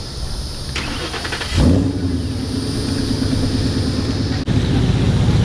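A car engine starting: a short fast clatter of cranking, then it catches with a brief rev about a second and a half in and settles into a steady idle.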